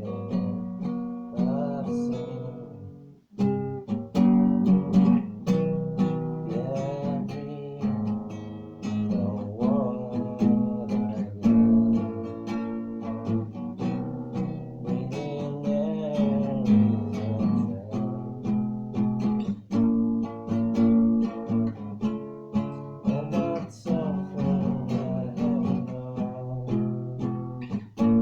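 Acoustic guitar playing an instrumental piece of picked and strummed notes, with a brief pause about three seconds in before the playing resumes.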